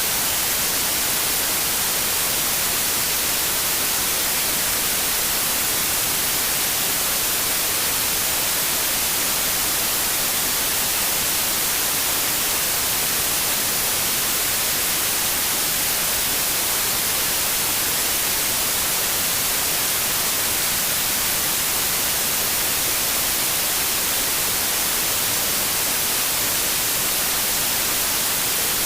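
Synthetic white noise: a steady, even hiss with no changes, brightest in the high frequencies.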